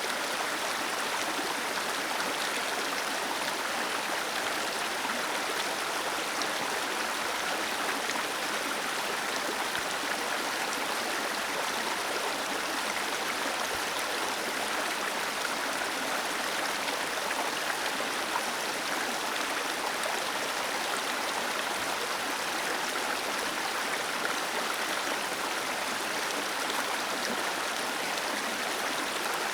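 Water cascading down a small waterfall, a steady, unbroken rushing splash with little deep rumble.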